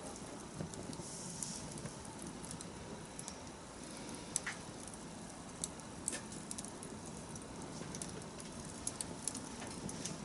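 Campfire burning: a steady low rush of flame with scattered sharp crackles and pops, the loudest about four seconds in.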